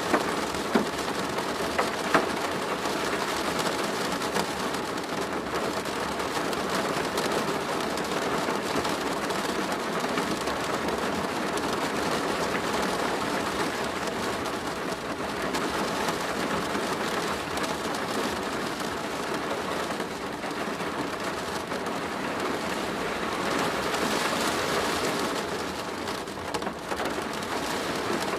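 Steady, heavy rain falling on a plastic roof, a dense even patter of drops with no let-up. A couple of louder single drop hits stand out about a second and two seconds in.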